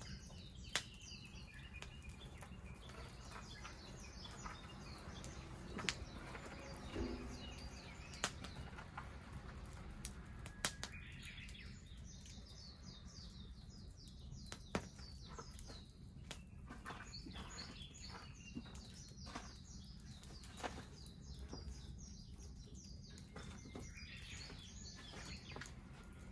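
Wood fire crackling with occasional sharp pops, over small birds chirping in quick, repeated trills.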